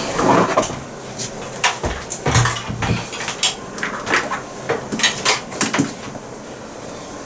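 Irregular knocks, clunks and clatter as a bee vacuum box is handled and lifted down, with a heavier thud or two about two seconds in.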